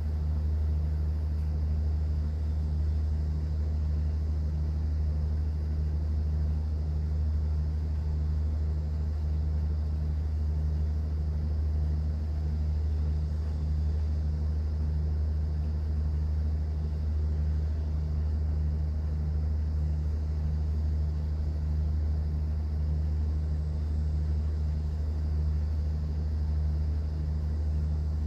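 Steady low drone of a cruise boat's engine heard on board, with a faintly pulsing hum above the deep rumble.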